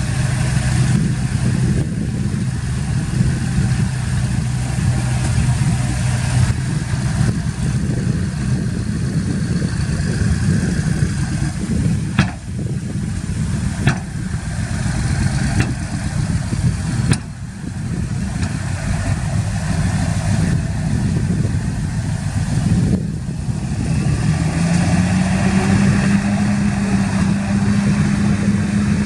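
Heavy diesel engines of earthmoving machinery running steadily, the engine note rising and then holding higher about three-quarters of the way through. A few brief sharp clicks come in the middle.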